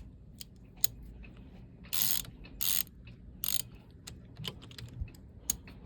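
Ratchet wrench being worked in three short strokes, each a quick run of clicks, with lighter clicks and taps of tools and metal between them: a bolt on a boat engine being tightened.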